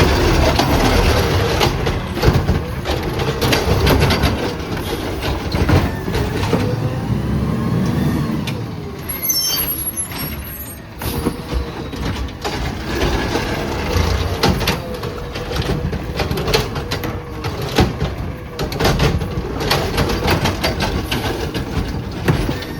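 Autocar ACX garbage truck working its route: the diesel engine runs and revs, with a hydraulic whine that rises and falls. Metal clanks come through, most of them in the second half, and a brief high hiss of air brakes sounds about nine seconds in.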